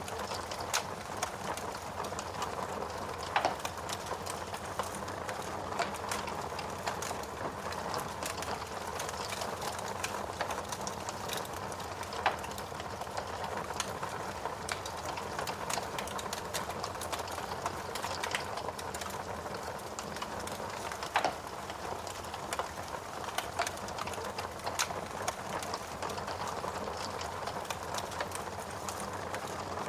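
Steady rain with a wood fire crackling over it, its small pops and snaps scattered irregularly; a few sharper, louder pops stand out.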